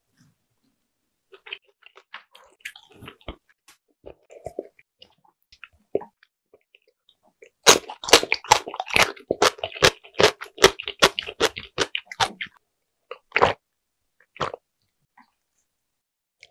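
Close-miked chewing of dumplings, made of soft wet clicks and smacks. The chewing is sparse and faint at first, then a dense run of loud chewing lasts about five seconds in the middle, followed by two single smacks.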